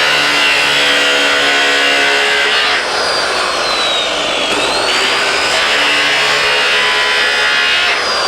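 Handheld power tool cutting sheet metal: a loud, steady motor whine with a grinding hiss. The pitch sags slowly as the tool bites into the metal, about three seconds in and again near the end, and climbs back as it frees up.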